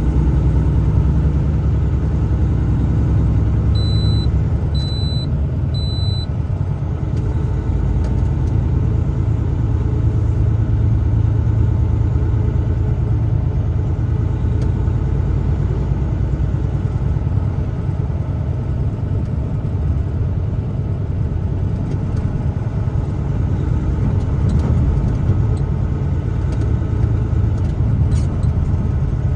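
Steady low rumble of a truck's engine and tyres while driving. A few seconds in come three short, high beeps about a second apart.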